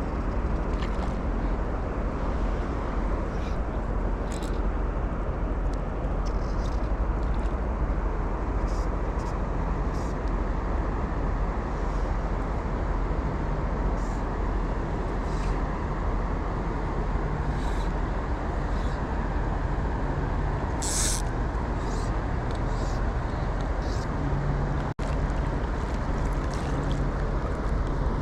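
Steady rushing roar of river water, with brief faint high ticks scattered through it.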